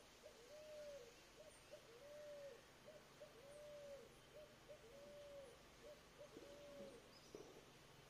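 A bird calling faintly in a repeating series of low hooting notes, long arched hoots alternating with short ones, with a light knock near the end.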